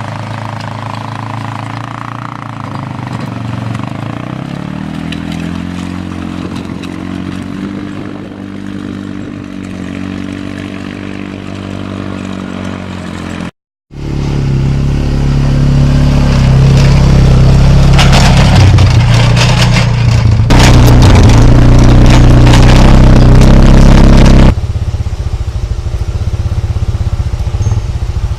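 Small vehicle engine, ATV-type, running with a steady note whose pitch rises a few seconds in. After an abrupt cut, a much louder engine works hard with clattering and crackling. It drops back quieter after another cut near the end.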